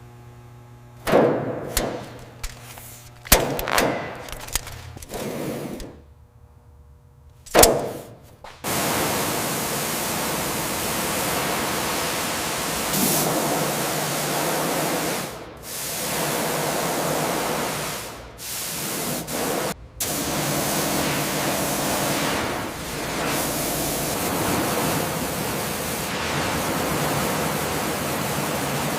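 Several sharp metal knocks and clanks over the first eight seconds, then a steady, loud hissing rush that stops briefly three times.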